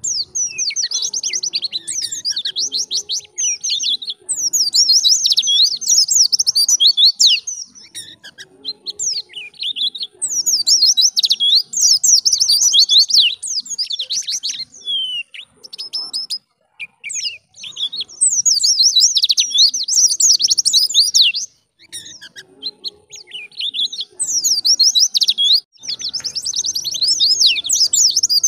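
White-eye (pleci) singing a fast, high twittering song in phrases of several seconds, broken by short pauses with a few single chirps.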